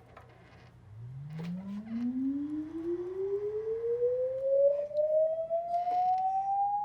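Bluetooth speaker playing a single pure tone that starts low about a second in and sweeps steadily upward in pitch, a rising siren-like whine that keeps climbing.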